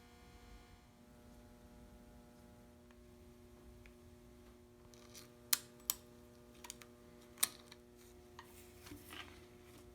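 Faint steady hum, then several short, sharp clicks and taps in the second half as bicycle parts and tools are handled during assembly.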